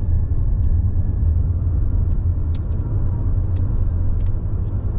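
Car driving along: a steady low rumble of tyres and engine, with a few faint light ticks scattered through it.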